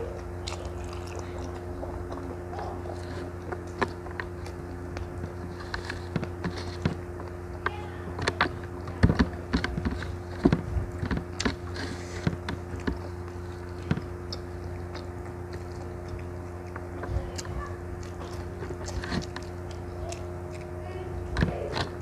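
Close-miked eating sounds: a person chewing rice and squid in sambal, with scattered wet mouth clicks and smacks that come thickest about halfway through. A steady low hum runs underneath.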